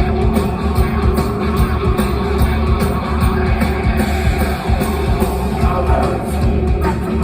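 Live rock band playing loud, distorted, bass-heavy music, with a strong continuous low end.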